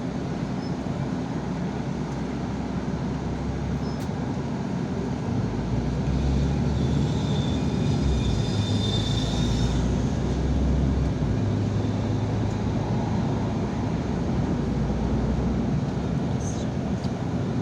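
Yutong ZK 6128 HG city bus under way: steady engine drone and road noise, the engine pulling harder from about five seconds in until about eleven, with a high thin whine in the middle of that stretch.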